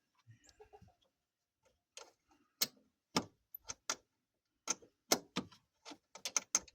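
Hand tools clicking and knocking on metal parts of a truck's engine bay: irregular sharp clicks, coming faster in a quick run near the end.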